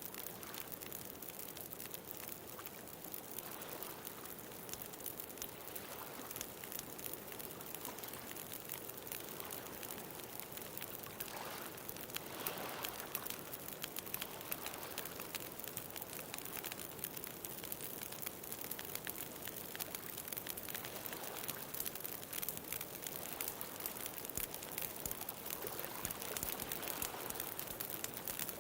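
Bonfire crackling with many small pops over a steady hiss, while ocean waves swell and wash in and out every few seconds.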